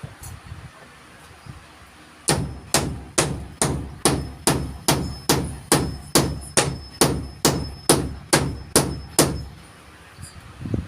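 Hammer driving a nail into wood: a steady run of about seventeen sharp blows, a little over two a second, each with a short metallic ring, starting about two seconds in and stopping near the end.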